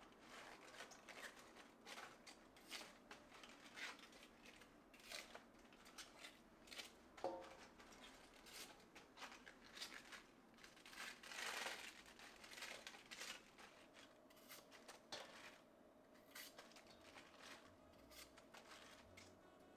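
Faint kitchen handling sounds: scattered light taps and clicks, with a brief rustle about eleven seconds in.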